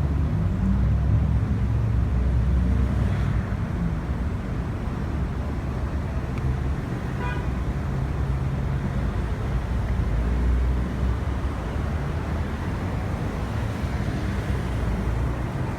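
Steady low rumble of a motor vehicle running close by, with road traffic noise.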